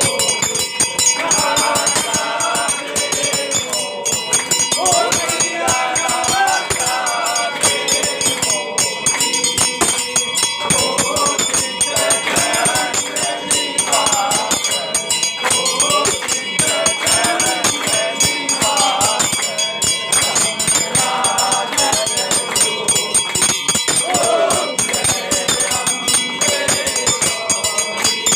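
Group of devotees singing a Hindu aarti hymn together, with temple bells ringing continuously and a fast, steady clanging beat throughout.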